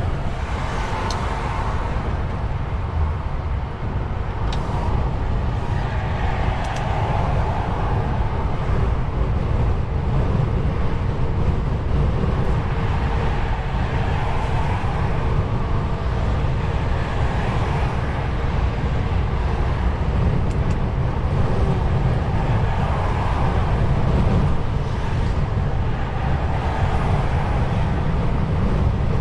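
Steady driving noise of a DAF XF truck on the road, with the diesel engine's low rumble and tyre and road noise, plus a faint steady hum. A few faint clicks come in the first several seconds.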